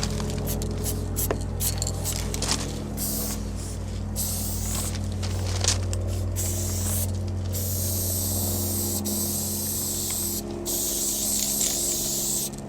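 Aerosol spray paint can hissing as paint is sprayed, in short bursts at first and then in longer sprays of a few seconds each, over a steady low hum.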